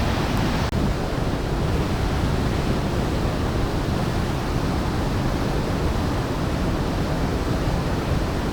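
Large waterfall pouring into its pool: a steady, dense rush of falling water, with a momentary dropout just under a second in.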